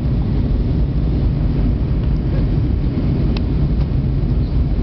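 Steady low cabin rumble of an Airbus A320-200 in flight, engine and airflow noise heard from inside the cabin, with one faint click about three seconds in.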